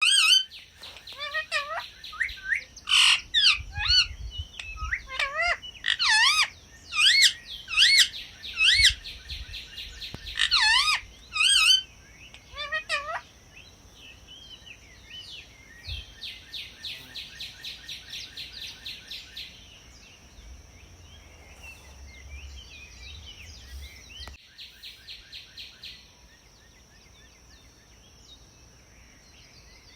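Parrot calling: loud swooping whistled calls in quick succession for the first dozen seconds or so, then quieter, rapid chattering trills. A steady high-pitched whine runs underneath.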